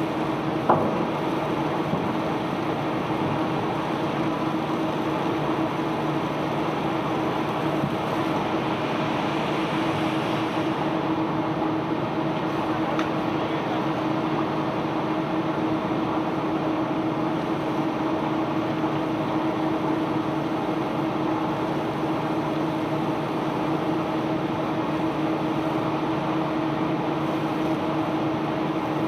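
Unloading machinery of a self-unloading barge running steadily: a constant mechanical din with a steady hum, and one sharp knock just under a second in.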